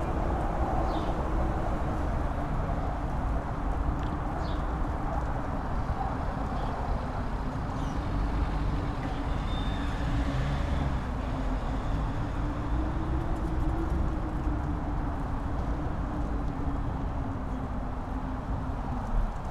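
Strong mountain wind: a steady rush with a deep rumble and a low howl that wavers slowly in pitch.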